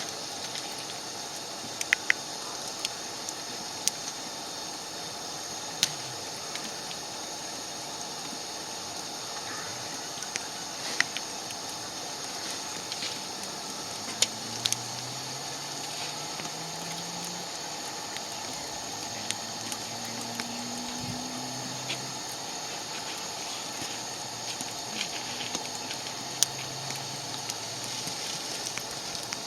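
Wood fire burning with a steady hiss and sharp crackles and pops every second or two.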